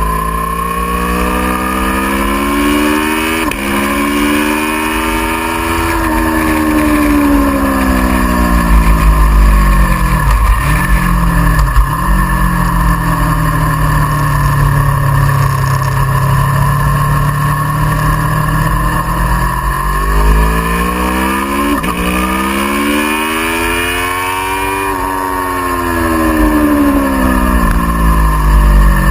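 Aprilia Tuono V4R's V4 engine at speed on track. The engine note climbs under acceleration and falls away on braking, twice over, with a few sudden breaks in pitch at gear changes and steady wind rush underneath.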